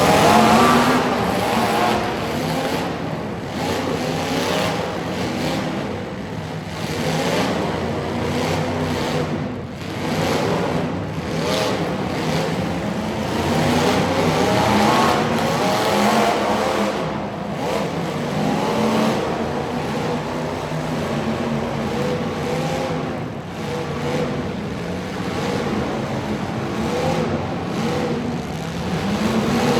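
Truck engines revving hard, their pitch rising and falling over and over, with more than one engine heard at once.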